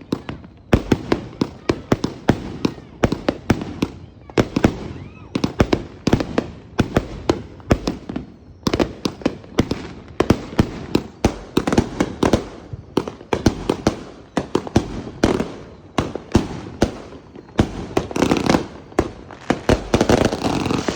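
Fireworks going off: a dense, irregular string of sharp cracks and bangs, several a second, with brief lulls twice.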